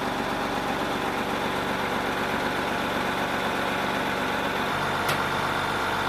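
Military truck's engine running steadily, with an even low rumble.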